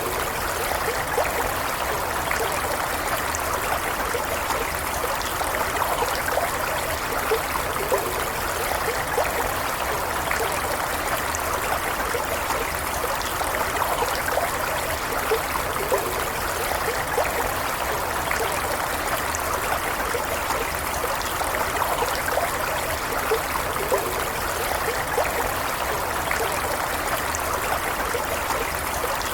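Stream water flowing steadily, a continuous rushing with small gurgles and trickles.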